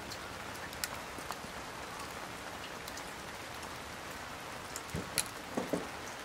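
Steady rain falling, with scattered raindrops ticking on nearby surfaces.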